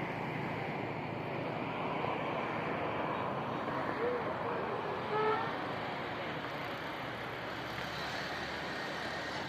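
Steady road traffic noise, with a couple of short wavering tones about four and five seconds in.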